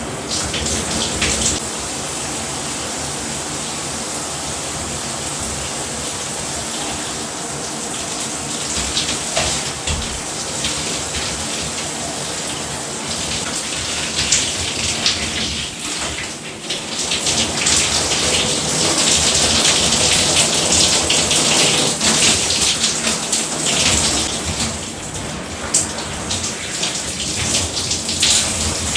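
Shower running: water pouring from a 12-inch rainfall shower head as a steady hiss of spray. It gets louder and brighter about 17 seconds in.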